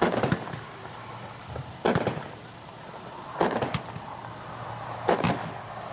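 A 16-shot 200-gram consumer fireworks cake (Go Big Purple) firing: four shots about a second and a half apart, most with a second crack a fraction of a second after the first.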